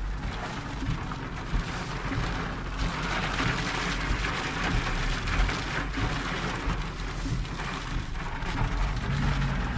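Heavy rain pouring down in a steady hiss, over a constant low rumble.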